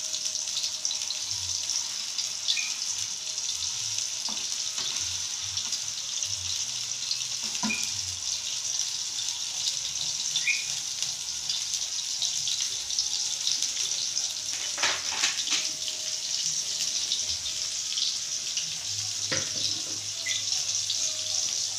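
Tofu in a liquid sauce sizzling and bubbling in a wok, a steady hiss, with a metal spatula scraping and knocking against the pan a few times.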